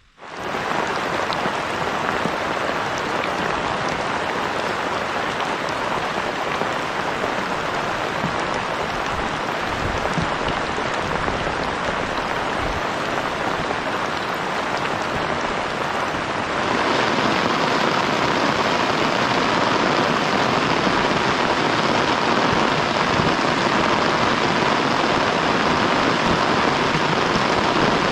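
Heavy rain falling in a dense, steady hiss that gets suddenly louder about two-thirds of the way through.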